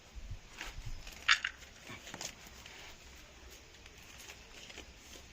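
Rustling of corn plants being handled, with a few sharp cracks or snaps, the loudest about a second in, then quieter, even rustling.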